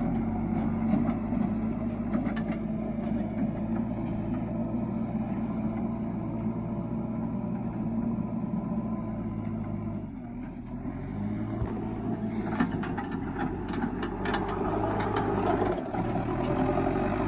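Heavy diesel machinery engine running steadily, easing off about ten seconds in and then picking up again, with a run of knocks and clatter in the later part.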